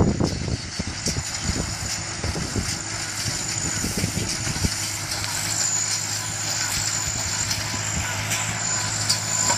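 Baler running with a steady mechanical hum and a thin high whine, with a few louder knocks in the first second or so.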